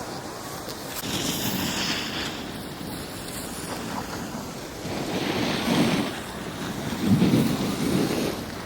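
Wind rushing over the microphone, swelling louder about a second in and twice more in the last few seconds.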